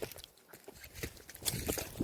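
Footsteps crunching on dry leaves and twigs on the forest floor: irregular steps, louder toward the end.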